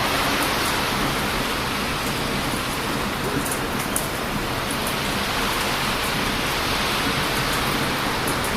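Steady rushing wash of heavy surf on a beach, with small sharp crackles and pops from a wood campfire scattered through it.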